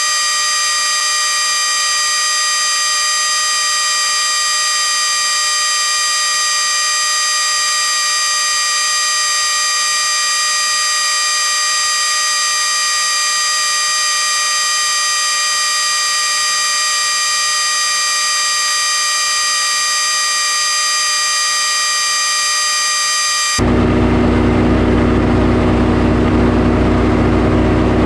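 Portable sawmill running: a steady, high-pitched whine with hiss, which changes abruptly about 23 seconds in to a lower engine running.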